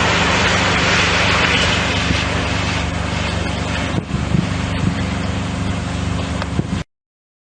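Loud steady rushing noise over a low steady hum, with a couple of faint clicks midway. It cuts off abruptly near the end into silence.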